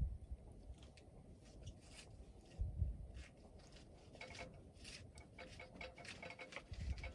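Wood fire crackling with scattered small pops, and a couple of low thuds. A few faint metallic clinks come in the second half.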